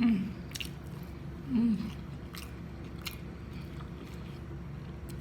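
Close-up chewing with wet mouth clicks and smacks, broken by two short hummed "mm" sounds, one at the start and one about a second and a half in.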